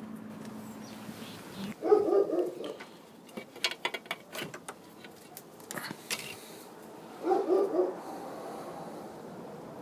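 A dog barks in two short bouts, about two seconds in and again about seven seconds in. Between the bouts come a run of sharp clicks and clatter.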